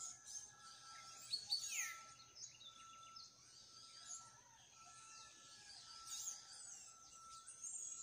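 Several birds chirping and twittering at once, the loudest a downward-sliding call about a second and a half in. Under them, a faint short note repeats about once a second.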